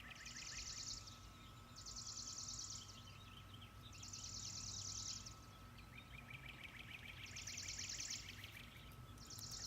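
Songbirds singing: a high, rapid trill of about a second, repeated five times with short gaps, with a lower trill under some of the phrases and a faint steady tone beneath.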